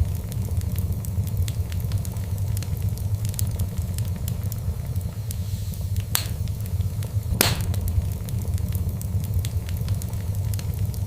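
Wood fire burning in a fireplace: a steady low rumble of the flames with scattered sharp crackles and pops, two louder pops a little past the middle.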